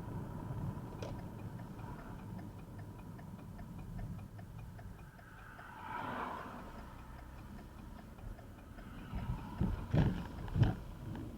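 Car driving, with steady road and engine rumble and a regular light ticking over it; two heavy thumps come about a second apart near the end.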